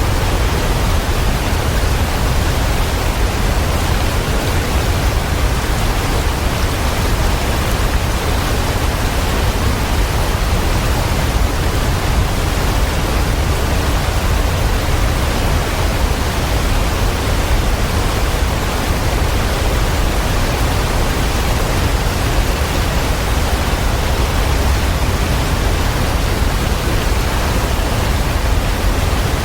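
Waterfall rushing steadily, an even wash of noise heaviest in the low end.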